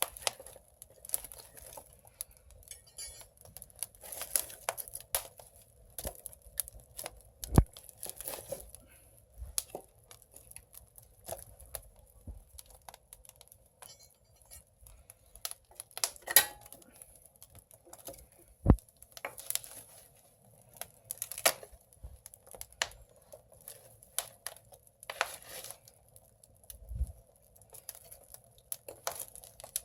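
Firewood burning in an agungi, a traditional Korean firebox stove, crackling and popping irregularly, with now and then a sharper, louder pop.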